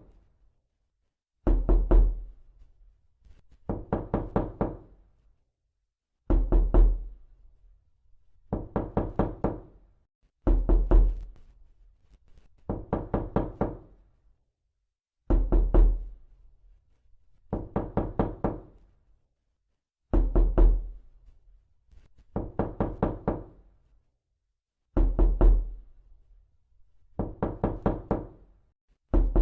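Rapid knocking in short bursts of about five or six quick knocks, each burst lasting about a second and repeating roughly every two seconds, with silence between.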